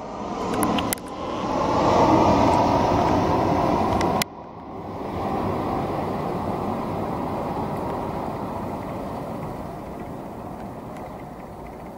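Airliner engine roar from landing aircraft, in short spliced segments that cut off abruptly about one and four seconds in. After the last cut a quieter rumble slowly fades away.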